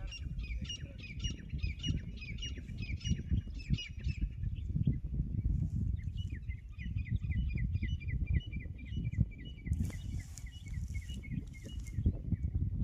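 A small animal, most likely a bird, giving rapid runs of repeated high chirps, about four or five a second, in two bouts with a pause between them, over a steady low rumble.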